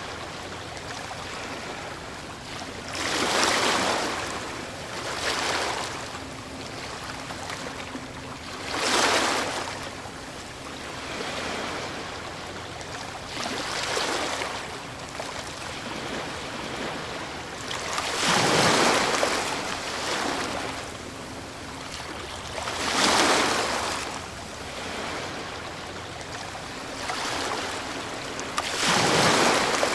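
Ocean waves breaking on a shore, a steady wash of surf swelling with each breaker every few seconds, the biggest about 4, 9, 19, 23 and 29 seconds in.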